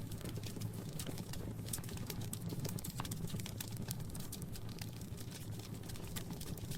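Wood fire crackling in a fireplace: dense, irregular small pops and snaps over a steady low rumble of the flames.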